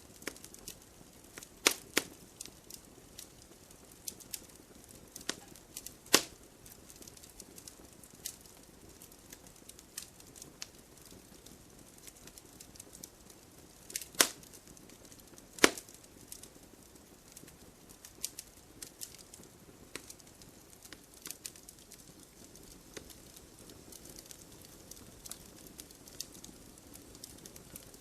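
Wood campfire crackling, with frequent small pops and a few sharp loud snaps of burning wood over a soft hiss.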